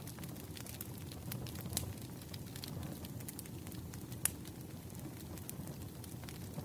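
Crackling wood fire: irregular sharp pops and snaps over a low steady rumble, with one louder pop about four seconds in.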